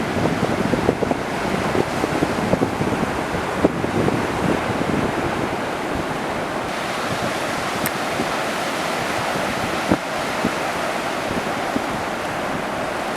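Ocean surf: a continuous wash of breaking waves, with wind buffeting the microphone in gusts through roughly the first half.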